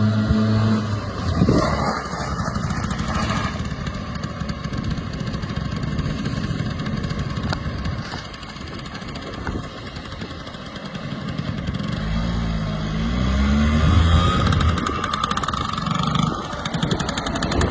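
Piaggio Ape 50 small two-stroke single-cylinder engine running, its speed rising and falling, loudest a little past two-thirds of the way in.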